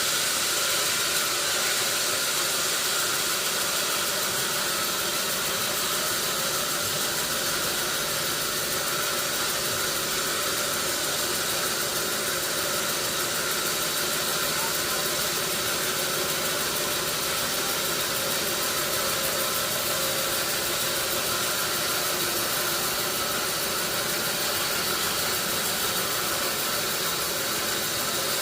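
Steady machine noise: an even hiss with a few constant hums, unchanging throughout.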